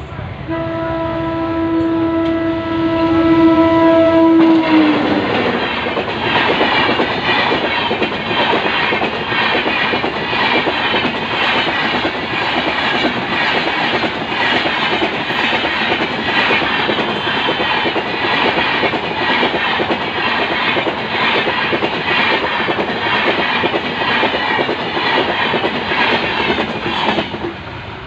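An Indian Railways electric locomotive sounds one long horn blast that drops in pitch as the locomotive passes. Its passenger coaches then roll by with a steady rhythmic clickety-clack of wheels over the rail joints, fading near the end.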